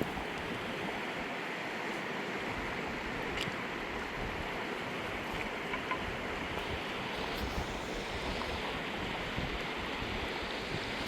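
Fast-flowing mountain river rushing steadily, an even wash of water noise with a few faint ticks over it.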